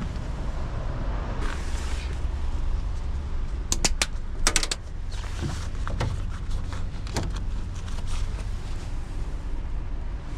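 Steady low rumble of a road vehicle under an even noisy hiss, with a quick cluster of sharp clicks about four seconds in.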